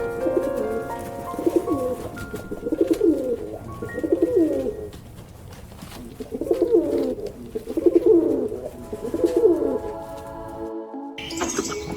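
A bird cooing over and over, seven low calls in two runs with a short pause between, over background music. Near the end the calls give way to high-pitched chirping.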